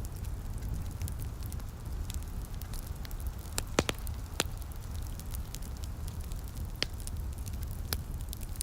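Wood fire crackling in a fireplace: scattered small pops over a steady low rumble, with a few louder, sharper pops through the middle.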